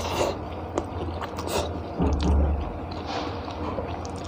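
Close-up chewing and wet mouth sounds of a person eating rice and egg curry by hand, with small clicks, over a steady low hum. A dull low thump about two seconds in is the loudest sound.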